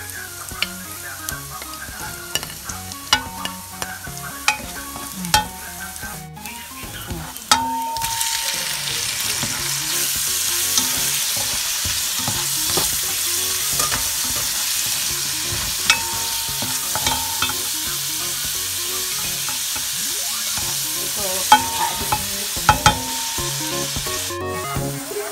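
Chopped onion sizzling in hot oil in a pot, stirred with sharp clicks and scrapes of a utensil. About seven seconds in, the sizzle turns much louder and denser as squid rings and pieces fry with the onion and garlic, with occasional stirring clicks.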